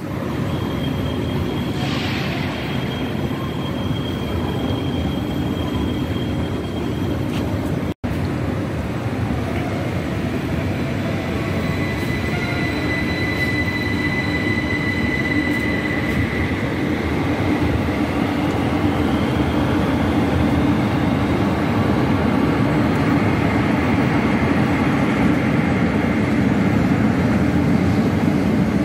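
A train running through the station: a steady rumble that grows slowly louder, with high squealing tones held for several seconds at a time. The sound cuts out for an instant about eight seconds in.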